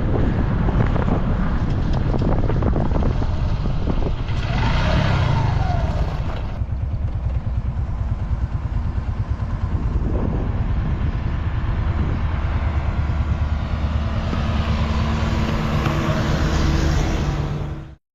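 Motorcycle engine running while riding, with wind noise on the microphone; the sound cuts off abruptly near the end.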